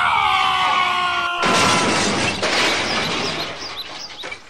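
Dubbed crash sound effect for a toy dump truck overturning: a falling, cry-like tone for about a second and a half, then a sudden loud crash and shatter that fades out over the next few seconds.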